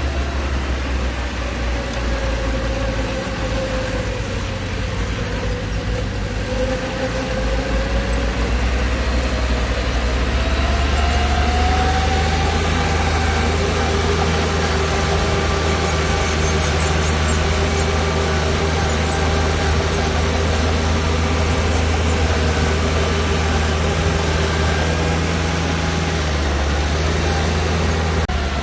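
Heavy diesel engine of earthmoving machinery running steadily with a deep drone. A whining tone rises in pitch about ten seconds in.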